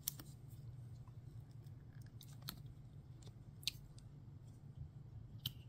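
Faint crackles and clicks of a silicone mold being flexed and peeled back as a cured resin piece is worked out of it, four sharper clicks standing out, over a low steady hum.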